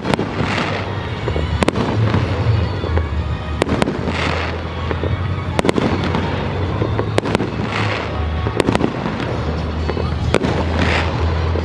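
Aerial fireworks shells bursting with sharp bangs every second or two. About every three to four seconds there is a short burst of crackling, over steady background music.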